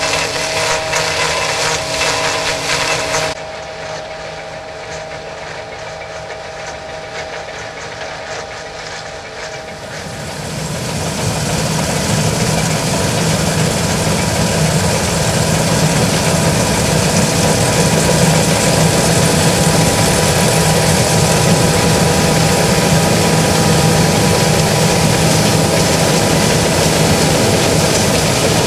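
John Deere S660i combine harvester running, a steady machine hum with a few constant tones. It drops suddenly about three seconds in, then builds up louder from about ten seconds on and holds steady.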